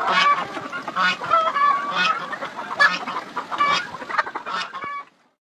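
A flock of poultry calling, many short calls overlapping in quick succession, cutting off suddenly near the end.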